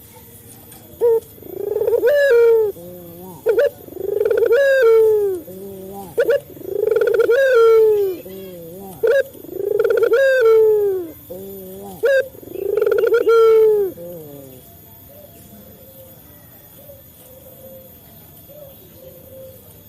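Male puter dove cooing: five calls in a row, about one every three seconds, each a short sharp note followed by a long drawn-out coo. After the fifth call only faint low cooing remains.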